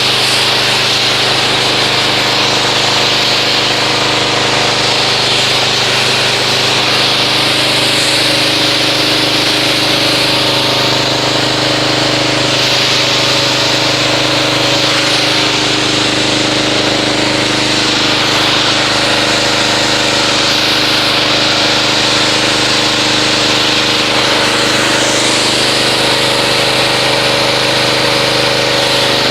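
Pressure washer running steadily, its motor humming under the hiss of the water spray as it rinses car-wash foam off a car.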